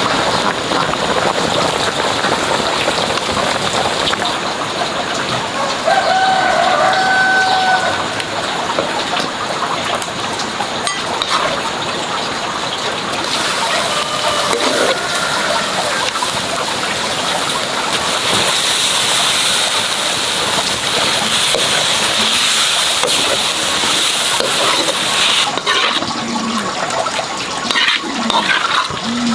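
Steady rushing water noise, loud and continuous, with a few brief pitched calls over it.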